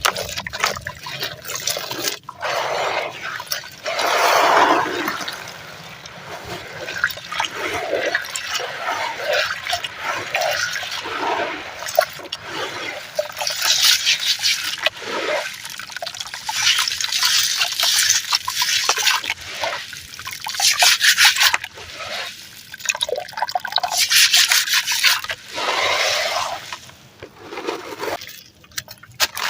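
Crunchy, gritty ash-like powder being crushed and crumbled, in repeated swells of fine crackling and trickling grains.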